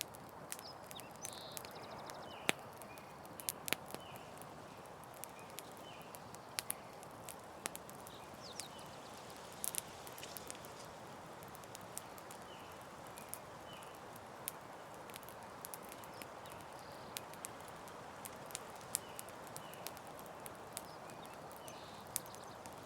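Campfire crackling: scattered sharp pops and snaps at irregular intervals over a steady soft hiss, with faint short chirps in the background.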